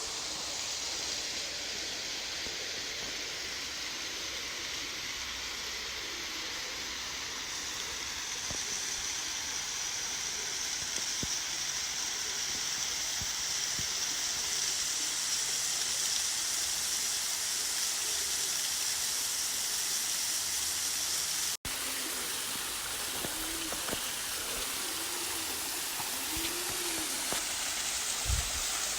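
Waterfall in a rocky wadi: a steady rush of falling water, cutting out for an instant about three-quarters of the way through.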